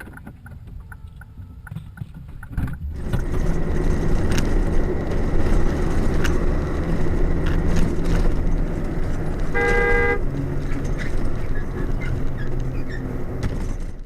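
Road traffic and engine noise, getting louder about three seconds in, with a car horn honking once, briefly, about two-thirds of the way through. The sound cuts off abruptly at the end.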